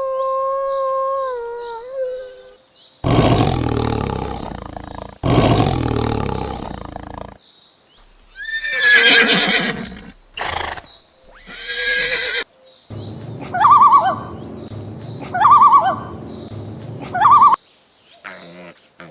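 A string of different animal calls, one after another with short gaps. A held, howl-like call fades out in the first two seconds. Then come two long, harsh calls, then wavering whinnying calls, then three short, repeated calls.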